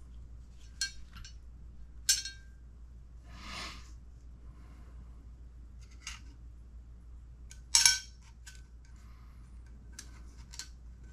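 Small metal tools and kit parts clicking and clinking as they are handled and set down during hand assembly of an RC car kit. There are a handful of sharp clicks, the loudest just before eight seconds in, and a brief scrape or rustle about three and a half seconds in.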